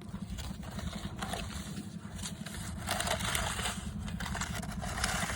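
Loose dirt being scraped and pushed while the jump's run-in is smoothed out, in a few short scraping strokes over a steady low rumble.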